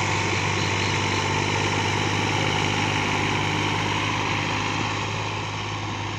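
Fiat tractor's diesel engine running steadily, growing a little quieter near the end.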